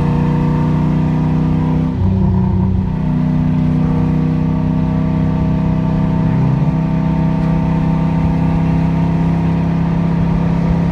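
Car engine running at a steady speed, its pitch shifting briefly about two seconds in and again around six and a half seconds in.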